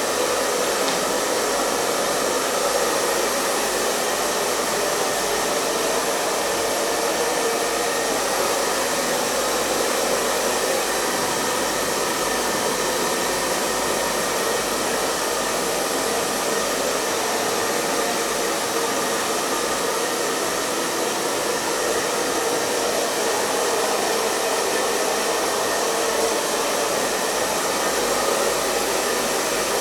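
Hair dryer running continuously at a steady speed: an even, unchanging blowing hiss from the fan and airflow, with a faint steady hum beneath.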